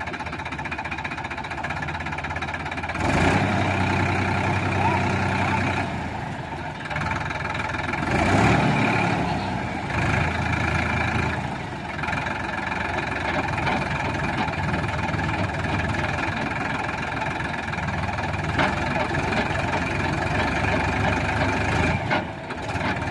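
Sonalika tractor's diesel engine running, rising in level about three seconds in and again briefly about eight seconds in, then running steadily.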